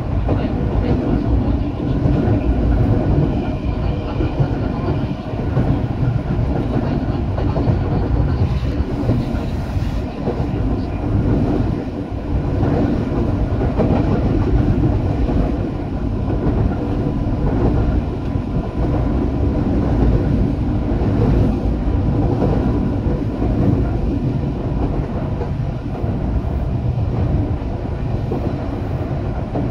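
Eidan (Tokyo Metro) 8000 series electric train running, with a steady rumble of wheels and running gear.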